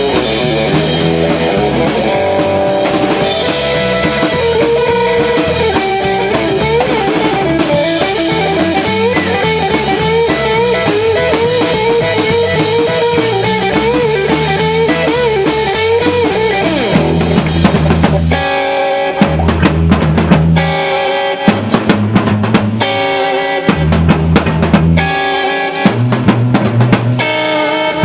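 Live rock band playing an instrumental passage: a wavering guitar lead line over drums and bass. About two-thirds of the way in, the band switches to short, loud stop-start hits, with drums and bass stabs separated by brief gaps.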